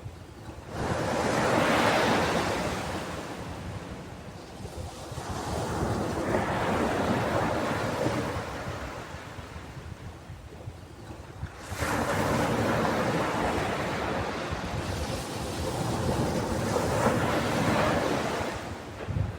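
Ocean surf: waves breaking and washing up a beach, the rush of water swelling and fading in about four slow surges.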